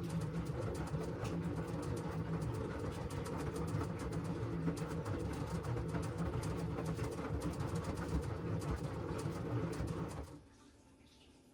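LG front-loading washing machine's drum turning through the wash with the load tumbling, a steady churning with fine clicks and sloshing, which stops about ten seconds in as the drum pauses between turns.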